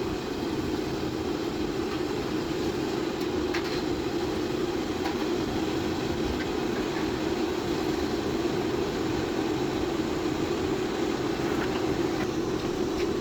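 A steady, even rumbling noise with a few faint clicks.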